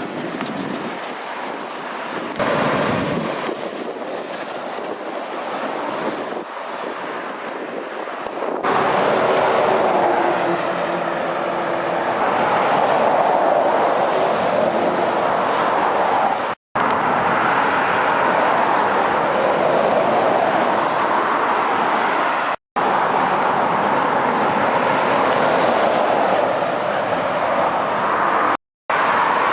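Traffic passing on a dual carriageway, lorries among it, with steady tyre and engine noise. It gets much louder about a third of the way through, then drops out abruptly for a moment three times.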